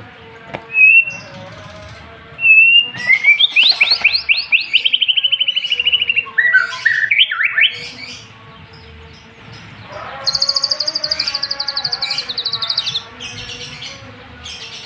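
White-rumped shama singing a varied song of mimicked phrases, with clear whistles, a run of fast rising trills about three to six seconds in, and a long, rapid, high rattling trill from about ten to thirteen seconds in.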